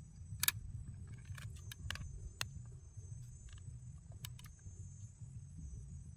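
Steady high insect drone, with about eight sharp clicks and knocks scattered through the first few seconds, the loudest about half a second in, over a low rumble.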